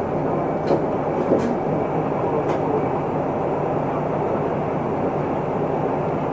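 Steady diesel engine hum and road noise inside an Isuzu Erga Mio city bus, with a few short rattles or clicks in the first few seconds.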